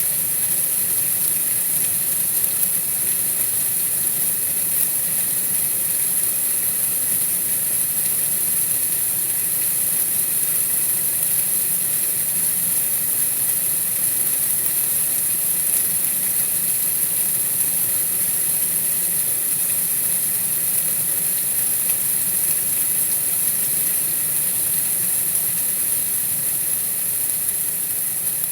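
Steady, unbroken hiss, brightest at a high pitch, with a faint low rumble underneath and no separate events.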